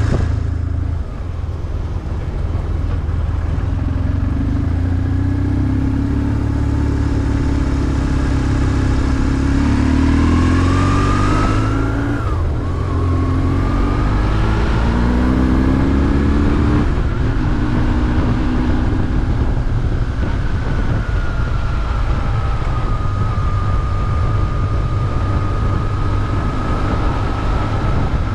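BMW R1150GS's 1130 cc air/oil-cooled boxer twin under way, revving up and shifting through the gears several times, then running at a steadier speed.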